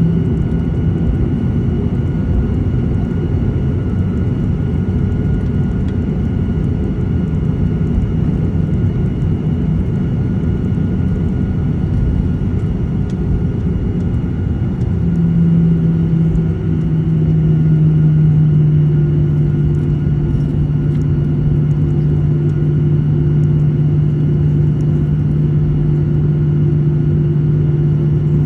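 Jet airliner engines heard from inside the cabin: a loud, steady rumble with a low drone. About halfway through, the drone grows louder, drops slightly in pitch and then holds.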